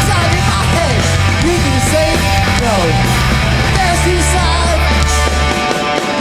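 Live New York hardcore band playing at full volume: distorted guitars, bass and drums with singing over them. The low end drops out briefly near the end.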